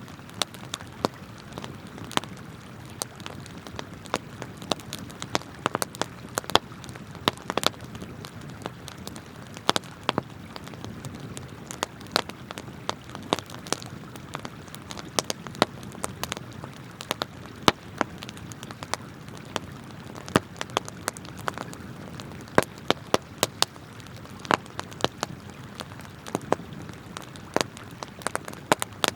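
Wood campfire crackling, with many sharp irregular pops and snaps, over the steady rush of flowing river water.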